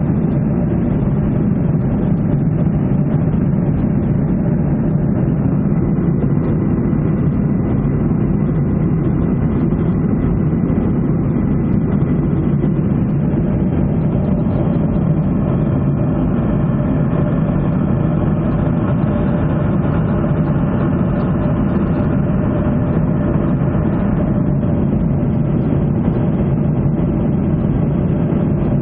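Steady jet engine drone and airflow heard inside the cabin of a Ryanair Boeing 737 in flight, mostly low and even, with faint steady engine tones above it.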